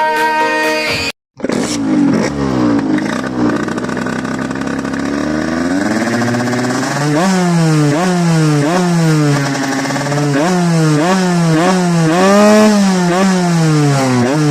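Music cuts off about a second in. Then a Minarelli AM5 two-stroke moped engine with a Stage6 77 cc cylinder kit and expansion pipe runs, revved up and down in repeated quick blips, with one longer rev near the end.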